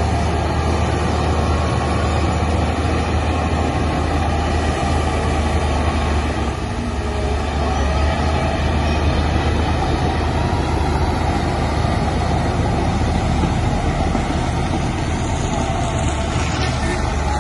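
Heavy diesel earthmoving machinery running steadily with a deep, continuous engine drone.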